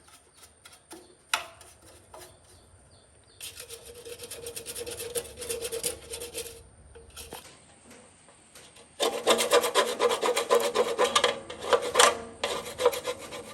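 Hand abrading of a milling-machine part: rapid back-and-forth rasping strokes. A short bout starts a few seconds in, and after a pause a louder, longer bout follows.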